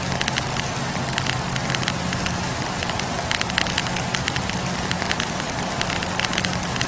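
Wood campfire crackling: frequent sharp pops and snaps of burning logs over a steady hiss and low hum of the flames.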